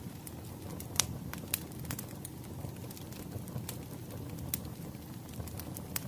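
Wood fire crackling: a steady low rumble with scattered sharp pops, the loudest about a second in.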